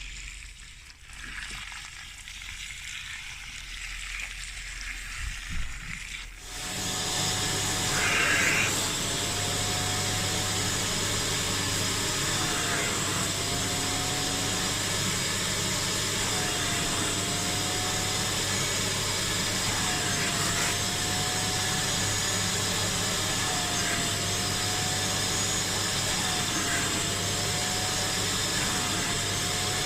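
Kärcher Puzzi 10/1 spray-extraction cleaner starting up about six seconds in, then running steadily as a loud suction noise with a whine that dips briefly every few seconds.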